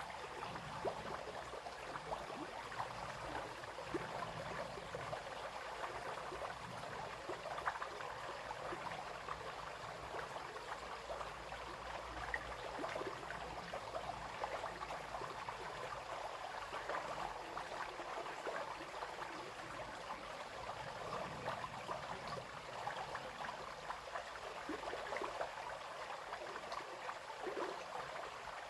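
A small brook flowing steadily over stones, babbling and splashing with many small, irregular gurgles.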